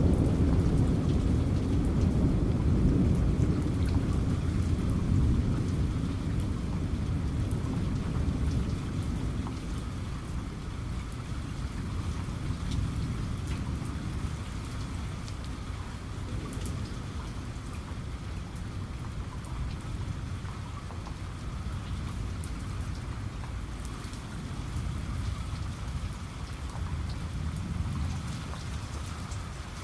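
Steady rain falling, with a low rumble of thunder dying away slowly over the first several seconds. Faint patter of individual raindrops.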